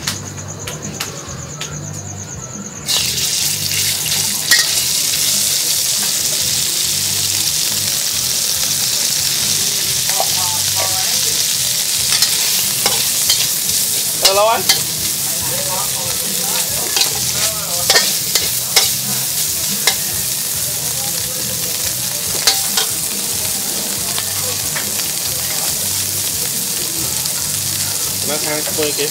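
Hot oil in a steel wok sizzles quietly, then about three seconds in it breaks into a loud, steady frying hiss as sliced meat goes into the oil. A metal spatula clicks and scrapes against the wok as the meat is stir-fried.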